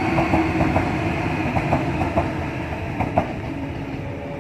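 Sydney Trains Waratah double-deck electric train passing close by, its wheels clacking over the rail joints over a steady rumble. The sound fades near the end as the last car goes by.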